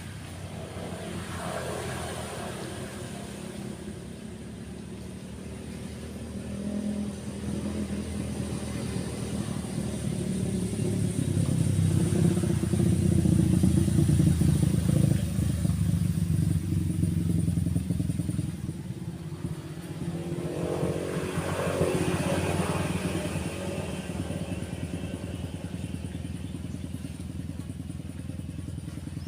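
Motorbikes passing on a nearby road: engine hum swells to its loudest about halfway through, then a second engine rises in pitch and fades around two-thirds of the way in, over a steady wash of surf.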